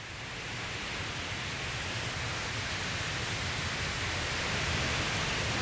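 Glacial meltwater waterfall rushing, a steady noise of falling and churning water that grows gradually louder.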